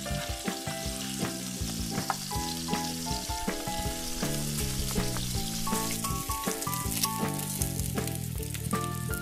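Sweet corn with sauces sizzling in a frying pan as a wooden spatula stirs and scrapes it, with occasional clicks of the spatula on the pan. Instrumental background music with a melody plays throughout.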